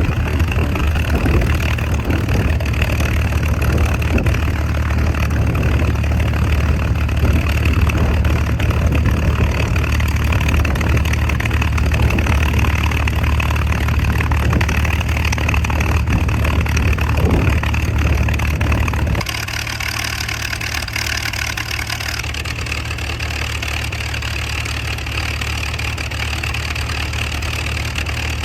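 P-51 Mustang's Merlin V-12 engine running steadily, with a deep, even drone; about nineteen seconds in the sound drops abruptly to a slightly quieter, lower-power run.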